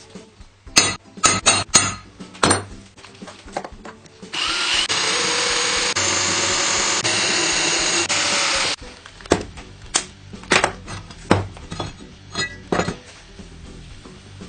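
A power tool runs steadily for about four and a half seconds, then cuts off suddenly. Sharp knocks and clanks of workpieces being handled come before and after it.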